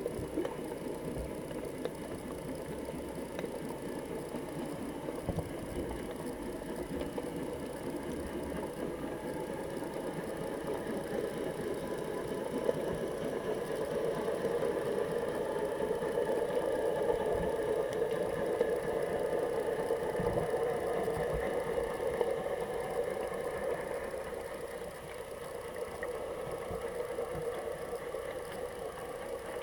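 Steady muffled underwater noise picked up by a GoPro in its waterproof housing, a low hum that swells about halfway through and eases again near the end.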